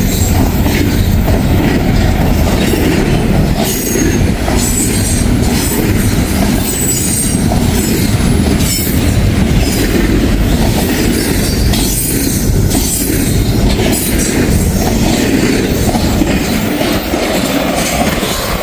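Norfolk Southern freight train ripping by at speed close to the track: a loud, steady rumble of rolling cars with repeated clicks of wheels over the rails, easing slightly near the end.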